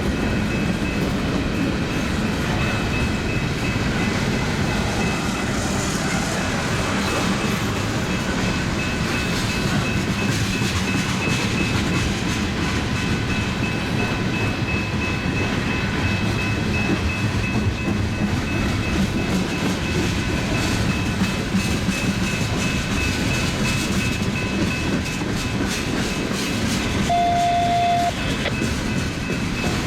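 Long mixed freight train rolling past, a steady rumble of railcars with wheel clatter on the rails. A short tone lasting about a second sounds near the end.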